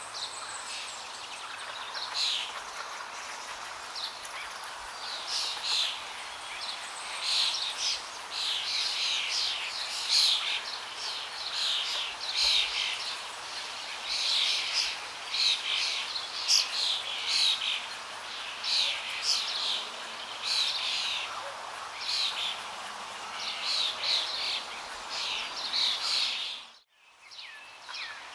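Small birds chirping and twittering in short high calls that come in clusters, over a steady background hiss; the sound drops out briefly near the end.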